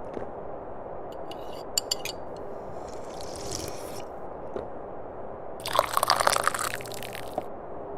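Tea being sipped from a cup: a soft sip and a few small clicks, then one loud, wet sip lasting under two seconds, starting past the halfway point, over a steady low background noise.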